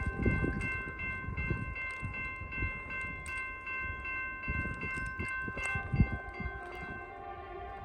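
Railroad grade-crossing bell ringing in quick, even strokes, over the low rumble and clunks of a train on the rails. The ringing stops about three quarters of the way in.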